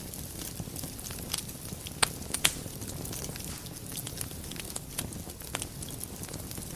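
Wood fire burning in a fireplace: a steady low rush of flame with scattered crackles and a few sharper pops, the loudest about two seconds and two and a half seconds in.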